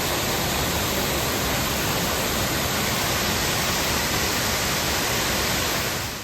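Water rushing over a waterfall, a loud steady noise with no break or change.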